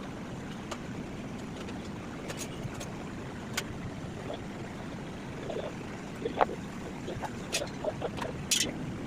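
Steady low rumble with a few sharp metallic clinks at irregular intervals, about six in all.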